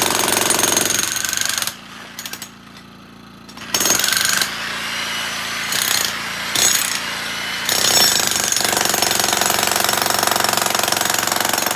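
Jackhammer breaking up concrete: rapid, continuous hammering that stops for about two seconds near the start, then starts again and runs on.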